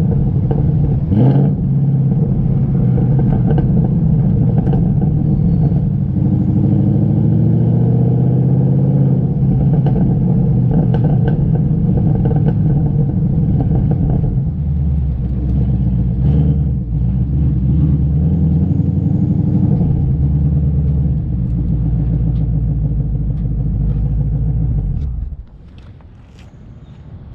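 Vortech-supercharged 2019 Ford Mustang GT's 5.0 V8 with long-tube headers, driving: the exhaust note rises under acceleration, then settles into a deeper steady drone. About 25 seconds in it cuts to a much quieter engine sound.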